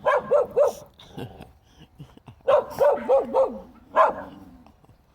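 A dog giving short, high-pitched yipping barks: three quick yips near the start, then a run of about four that trails into a falling whine, and one last yip about four seconds in.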